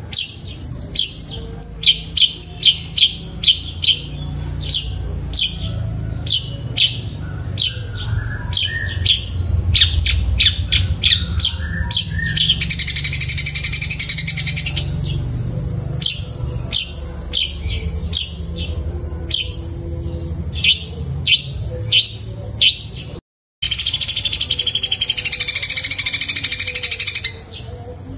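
Long-tailed shrike (cendet) singing a run of short sharp sparrow-like chirps, two to three a second, mimicking the Eurasian tree sparrow, broken by two long buzzing trills, one in the middle and one near the end.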